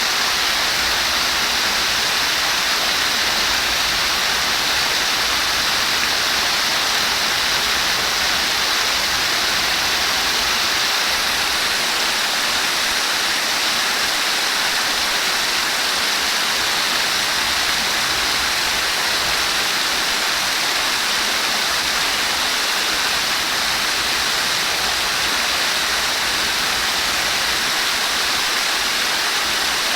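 Running water flowing steadily, an even rushing hiss that does not change.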